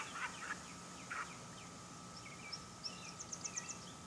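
Small birds chirping: a few short calls at the start and again about a second in, then a quick run of six or seven high notes near the end, over a faint steady tone and hum.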